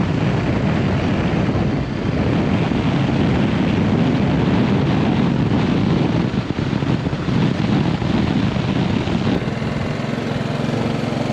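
Motorcycle riding at speed: the engine running steadily under a heavy rush of wind noise. Near the end, a steadier engine note comes through.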